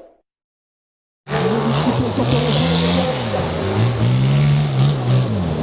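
A hill-climb dirt bike engine revving up and down repeatedly, its pitch rising and falling over and over. It cuts in suddenly about a second in, after silence.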